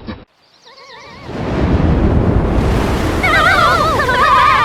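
Loud rushing wind noise from a cartoon tornado. Warbling, wavering-pitched animal cries sound over it briefly about a second in and again from about three seconds in, the soundtrack bent by a vibrato-like editing effect.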